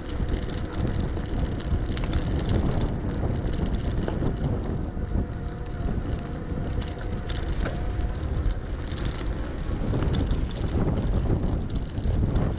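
Wind rushing over the microphone and the rumble of an electric bike's tyres on the track as it is ridden along, with a few light clicks and rattles.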